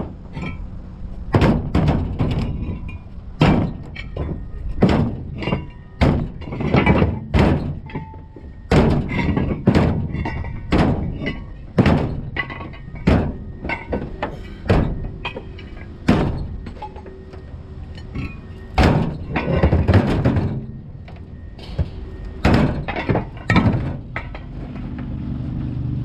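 Truck body being broken up for scrap: a long run of irregular heavy thuds and crunching impacts of metal, roughly one a second, over a steady low rumble.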